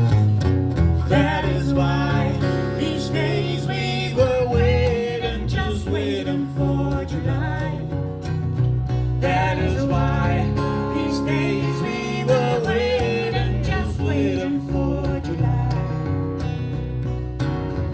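Live music from a voice-and-baritone-guitar duo: plucked baritone guitar with a steady low bass line, and a wavering melody line over it that twice rises in and fades out.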